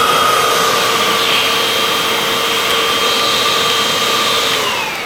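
Vacuum cleaner motor running steadily with a high whine over a rushing airflow. Near the end the pitch glides down and the sound starts to fade as the motor winds down after being switched off.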